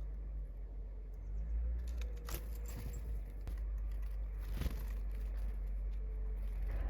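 Small wild birds pecking and scrabbling at their food: scattered sharp clicks and rustles, the loudest about two and a half and four and a half seconds in, over a steady low rumble.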